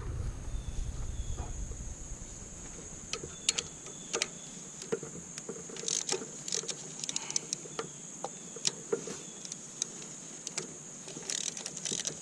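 Irregular light clicks and taps of hand tools on metal, about a dozen over several seconds, with pauses between them, as valve cover bolts are being removed.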